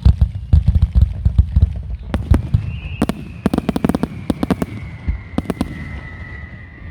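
Fireworks display: a rapid barrage of deep shell bursts and cracks, thinning to separate sharp reports after about two seconds. A high whistle starts about two and a half seconds in and slowly falls in pitch under the later bangs.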